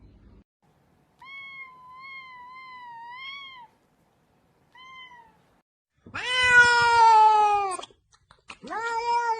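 Cat meowing: a long, wavering high-pitched meow, a short one, then two louder, lower, drawn-out meows near the end.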